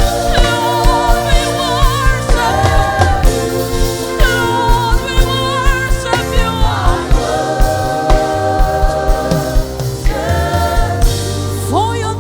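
Live gospel worship music: voices sing long held notes with vibrato over a band with bass and a steady kick-drum beat.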